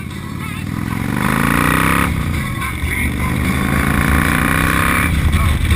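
Motorcycle engine accelerating: its pitch climbs, drops at a gear change about two seconds in, climbs again through the next gear, and drops at another shift near the end.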